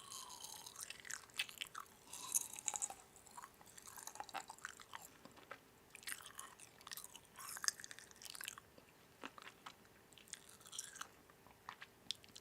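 Irregular crisp crunching and clicking, close to the microphone, coming in clusters of about a second with short quiet gaps, with some faint squeaky tones among them.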